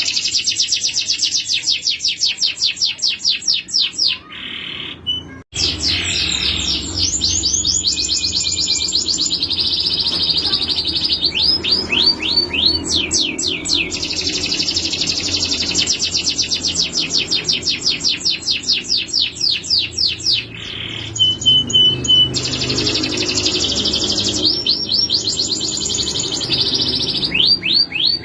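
Male canary singing: long runs of very rapid repeated notes, broken by series of falling whistled notes, with a short pause about four seconds in.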